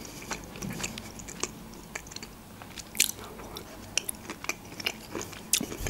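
Close-miked chewing of a mouthful of çiğ köfte, soft bulgur patties, with scattered wet mouth clicks.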